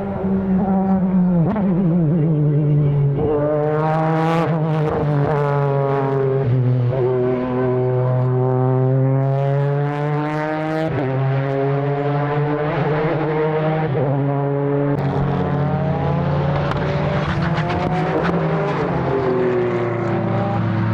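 Modified time attack race car engine at high revs, its pitch climbing and then dropping sharply again and again through gear changes and lifts. Sharp exhaust cracks come about four seconds and ten seconds in, and a second engine note crosses it near the end.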